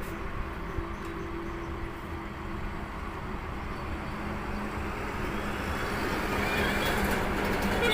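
Truck on the road: steady engine and road noise, slowly growing louder toward the end.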